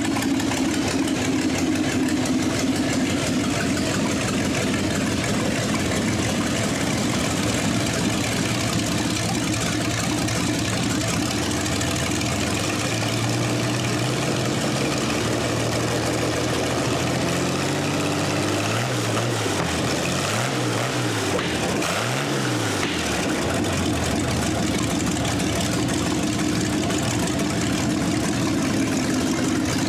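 1938 GMC truck engine running at idle after being started. About twelve seconds in it speeds up, and around twenty seconds in it is revved up and down three times before settling back to idle.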